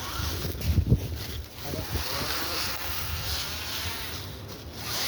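Small electric motor of an RC crawler truck whirring as it drives in reverse to get unstuck, with wind noise on the microphone.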